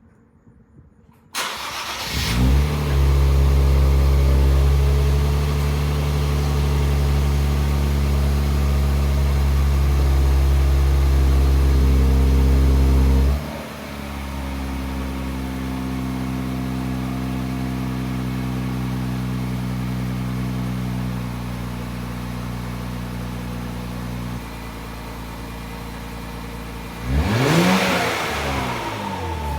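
2024 Nissan Z's twin-turbo V6 starting up through a Rae-motorsports axle-back exhaust: it catches about a second and a half in and runs at a steady fast idle, then drops to a lower idle about halfway through. Near the end it is revved once, pitch rising and falling quickly.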